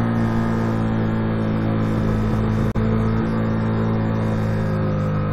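Motorcycle engine running steadily while riding, with a brief click and a momentary dropout about halfway through.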